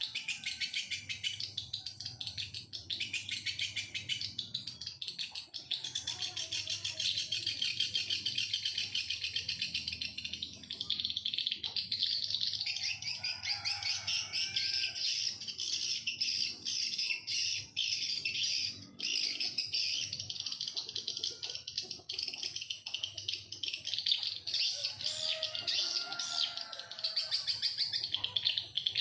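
Continuous rapid, high-pitched bird chirping and trilling, with a few lower, sliding calls mixed in now and then.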